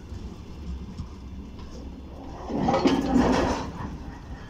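Freight container flatcars rolling slowly along the rails, a steady low rumble, with a louder burst of wheel-and-rail noise about two and a half seconds in that lasts about a second.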